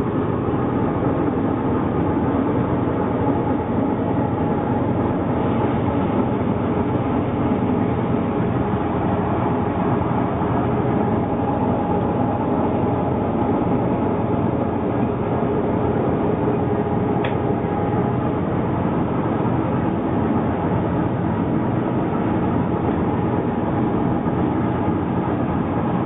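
Steady, loud running noise of a DF11G diesel locomotive, heard inside its cab: a constant engine drone with steady tones over the mechanical rumble. There is a single brief click about seventeen seconds in.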